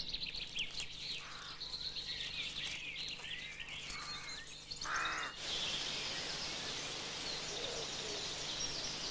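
Woodland ambience of small birds chirping and twittering, with a short lower call about five seconds in. After that a steady hiss of background noise carries on under faint chirps.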